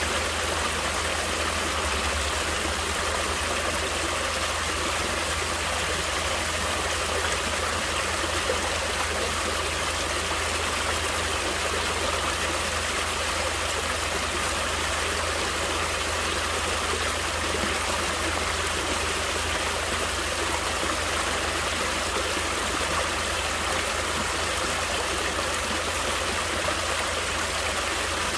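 Stream water flowing and splashing steadily over rocks, an even rushing hiss that does not change.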